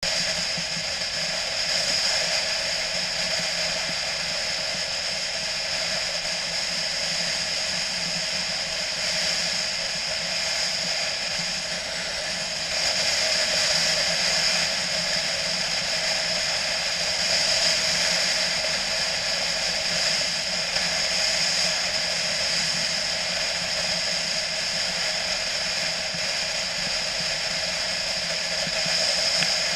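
Motorcycle on the move: steady engine and wind noise with no clear revving, growing a little louder about two-thirds of the way in.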